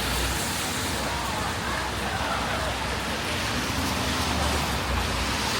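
Steady rushing noise of heavy rain and wet road traffic, with faint voices in the background.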